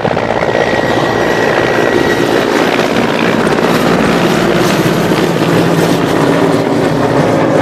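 Helicopter's rotor and engine running close by, loud and steady.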